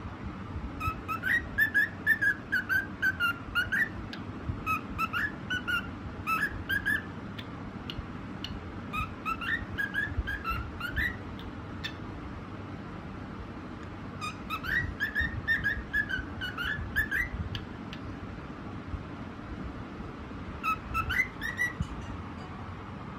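Cockatiel whistling a tune in quick, repeated phrases, about five bouts with short pauses between them, over a steady low background noise.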